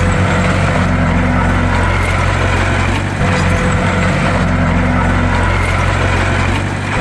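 Bulldozer's diesel engine running steadily, with short dips in level about three seconds in and near the end.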